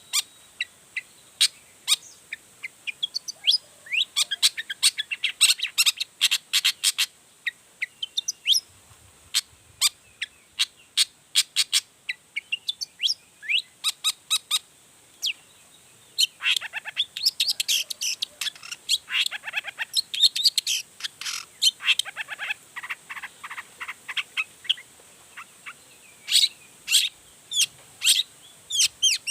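Long-tailed shrike (cendet) singing constantly and excitedly: a fast, varied string of sharp, high chips and short phrases of its learned mimicked material, with rapid trills about halfway through and again near the end.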